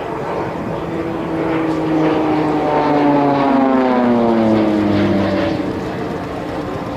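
Pilatus PC-7 turboprop trainers flying past in formation. Their propeller and engine drone swells, then drops in pitch over about three seconds as they pass and move away.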